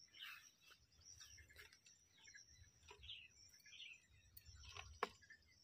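Near silence: faint scattered bird chirps, with a few soft clicks, the sharpest about five seconds in.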